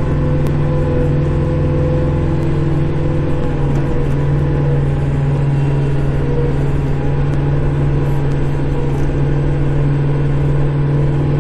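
Kubota Grand L5740 tractor's diesel engine running steadily, heard from inside the closed cab, its pitch shifting slightly a few seconds in.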